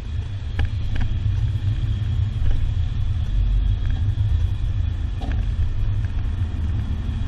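Steady low rumble of a car driving at low speed, heard from inside the cabin, with a couple of faint clicks about a second in.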